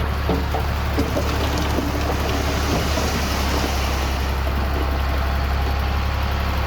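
Diesel engine of heavy earthmoving machinery running steadily with a deep drone, with scattered clanks and rattles.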